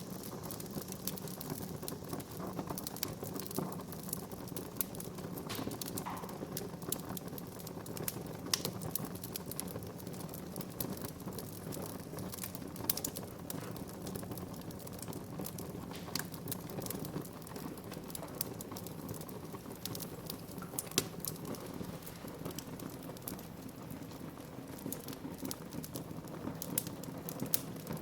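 Wood fire burning in a fireplace: irregular crackles and sharp pops over a steady low rustle, with a few louder snaps scattered through.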